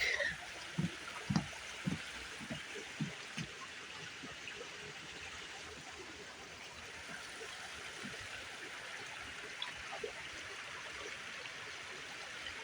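Stream water running steadily. In the first few seconds there are soft footsteps, about two a second.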